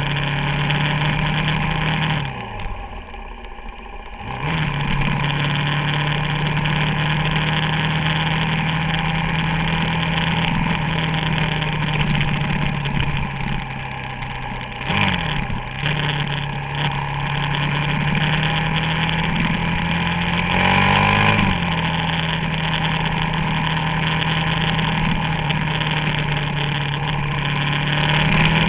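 Suzuki DR-Z400SM's single-cylinder engine running at a steady pace. Its revs drop and climb back about two seconds in, dip briefly about halfway, and rise and fall again a little later.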